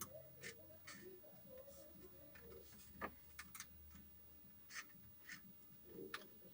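Near silence with faint, scattered small clicks and taps, about eight or nine in all, typical of hand work with small screws and tools.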